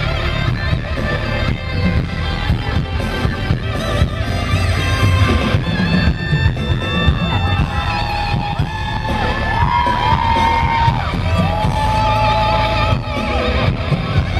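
Live pop song played loud through a concert sound system, with a steady bass line and a male voice holding long, wavering notes from about six seconds in.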